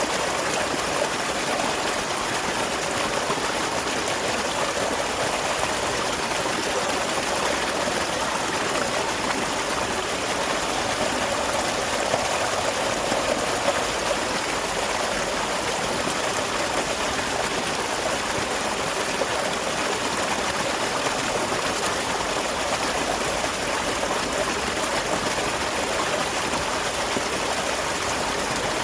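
Small waterfall beside a rice field: water splashing and running in a steady rush.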